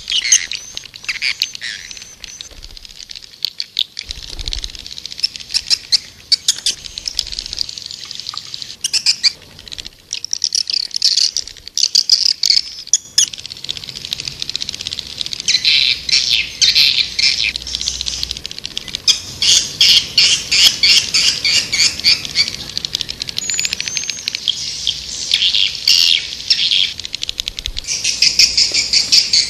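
Swiftlets chattering in rapid trains of high twittering, clicking chirps, which thicken about halfway through. It is a recorded swiftlet lure call of the kind played to draw birds into a swiftlet house.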